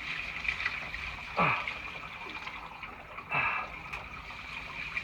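Toilet flush water running through drain pipes under a house, a steady trickle with two short gurgles falling in pitch, about a second and a half and three seconds in.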